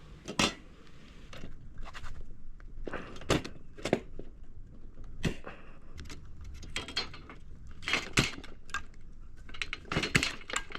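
Cheap hand pop rivet gun squeezed to set pop rivets in the corners of aluminium angle edging: a string of irregular sharp metallic clicks and clacks.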